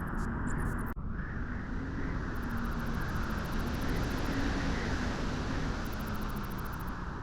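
Steady beach wind blowing, a dense low rumbling rush with a faint wavering hum underneath, briefly cutting out about a second in.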